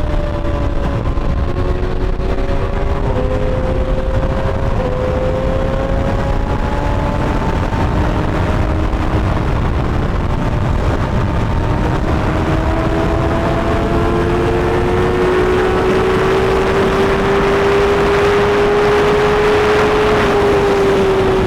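Superbike engines running under way, their pitch climbing slowly and easing off a little near the end, under a heavy low rush of wind on the rider's backpack microphone.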